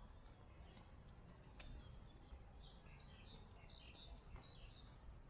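Faint bird chirps, a short run of about five at roughly two a second, over low street background noise, with a single sharp click shortly before them.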